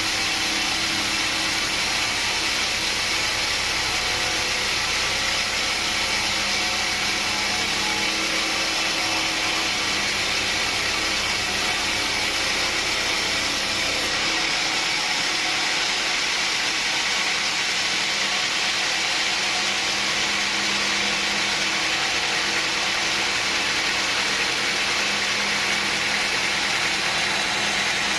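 Sawmill machinery running steadily: a continuous engine-like hum under a strong hiss, with no break; the deepest rumble and the highest hiss drop back slightly about halfway through.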